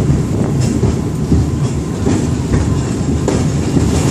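Victoria Peak Tram, a cable-hauled funicular car, running on its track: a steady low rumble of steel wheels on rails, with irregular clicks and knocks.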